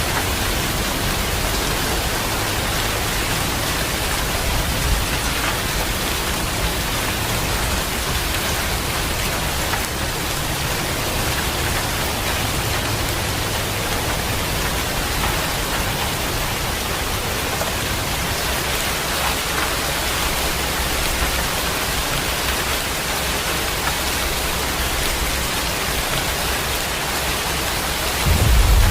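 Steady heavy rain hissing evenly. A deep rumble of thunder rolls in near the end.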